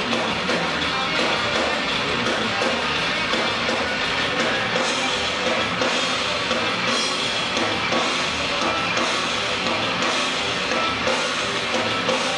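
A live rock band playing loud and dense: distorted electric guitar over a drum kit, with cymbal crashes at a regular pulse in the second half.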